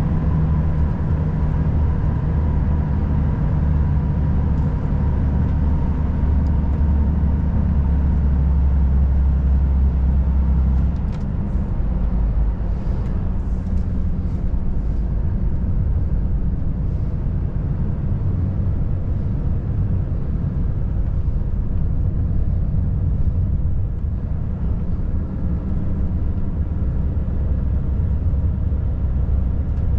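Volvo FH540 truck's 13-litre straight-six diesel running steadily under way, a deep drone. About eleven seconds in the lowest part of the drone drops suddenly and a few faint ticks follow.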